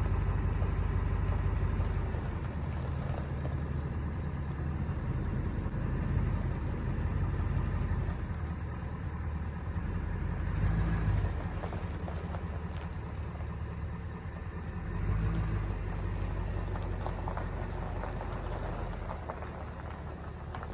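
Pickup truck engine idling as the truck is eased slowly out from under a raised camper, with two brief swells in engine sound about eleven and fifteen seconds in.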